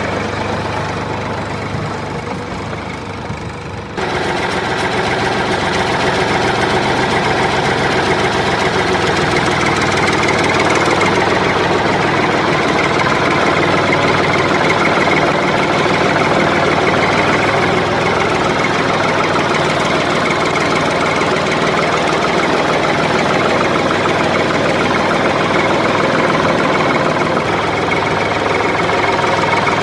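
A small motor running steadily with a buzzing, rattling drone. It jumps suddenly louder about four seconds in and stays there.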